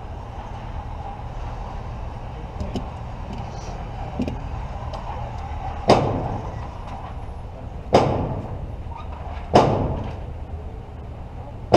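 Gunshots: three sharp reports about two seconds apart in the second half, a fourth right at the end, over a steady low hum, with a few light clicks before the first shot.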